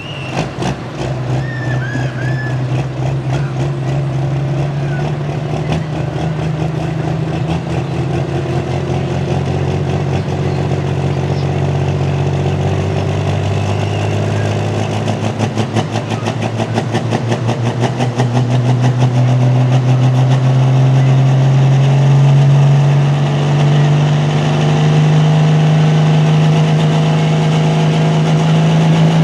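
Super/pro stock pulling tractor's engine running steadily at a low, rapid rumble, its pitch and loudness creeping slowly upward toward the end.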